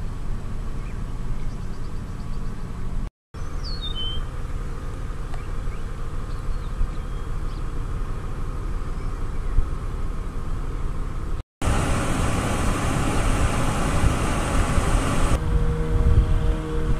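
Steady low outdoor rumble, broken twice by brief silences. A short, high falling chirp comes about three and a half seconds in, and a few steady tones join the rumble near the end.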